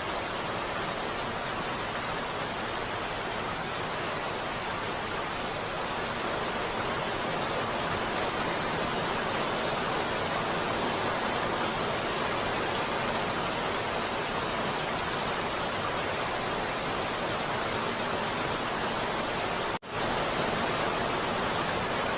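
Steady heavy rain, an even hiss with no music or thunder, that cuts out for a split second near the end before carrying on.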